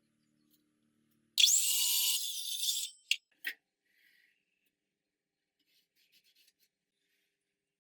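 A saw blade cutting through wood: a harsh, hissy rasp that starts suddenly and lasts about a second and a half, followed by two sharp clicks.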